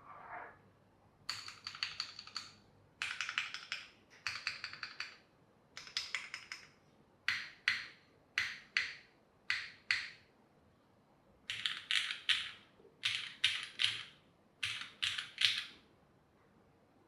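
Geon F1-88 mechanical keyboard with lubed Cherry MX2A Black linear switches on an aluminium plate and GMK keycaps, being typed on. First come several fast runs of keystrokes, then about eight single presses spaced apart, then quick groups of three or four presses, stopping shortly before the end.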